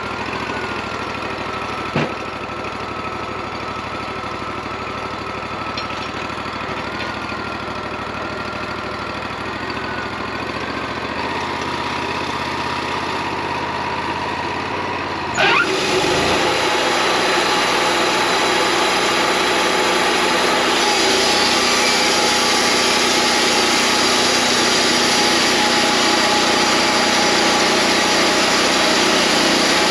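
Wood-Mizer LT40 bandsaw sawmill running: a steady engine hum with a faint, slightly wavering whine and a single click about two seconds in. About halfway through there is a sudden sharp sound, after which it runs louder and noisier.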